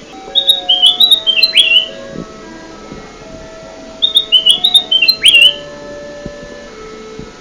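Kutilang emas bulbul song used as a bird lure: two bursts of quick, chattering notes about three and a half seconds apart, each ending in a sharp falling note. Faint steady low tones sound underneath.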